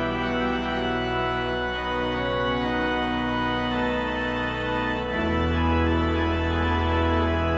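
Organ postlude closing a church service: sustained held chords, with a new chord and a deep bass note entering about five seconds in.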